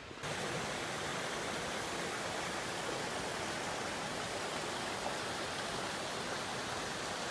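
Steady rush of a mountain stream's flowing water, an even hiss that holds at one level throughout.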